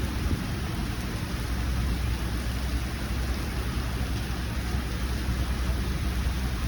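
Heavy rain falling in a steady, even hiss, with a constant deep rumble underneath.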